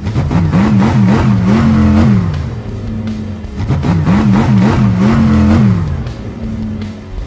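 Cartoon monster truck engine sound effect revving twice, its pitch wavering up and down several times and then dropping each time, over background rock music.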